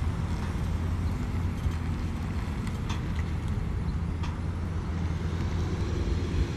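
Pickup truck driving on the road while towing a car on a trailer: a steady low engine and road rumble, with two faint clicks about three and four seconds in.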